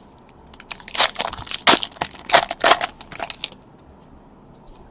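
Trading card pack wrapper crinkling and crackling in a quick run of crunches, which stops about three and a half seconds in.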